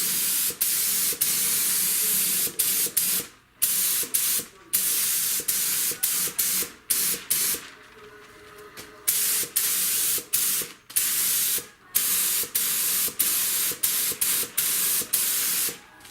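Pneumatic spray gun laying a second coat of primer on a car body panel: a loud hiss of atomising air in passes, broken by many brief gaps as the trigger is let off, with a longer pause about halfway.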